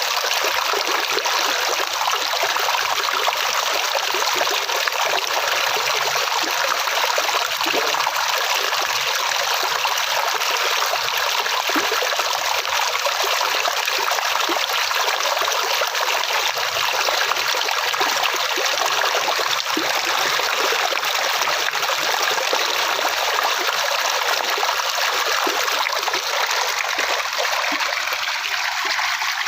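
Flowing water: a stream running and trickling in a steady, even rush with no breaks.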